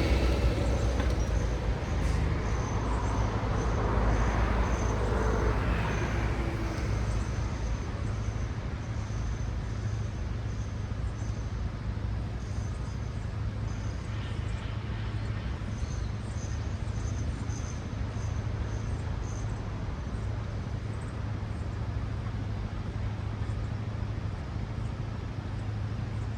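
Road traffic with cars passing: one fades away at the start, and another goes by in the first few seconds with a falling pitch. After that comes a steady low traffic rumble, with faint, short high-pitched chirps coming and going.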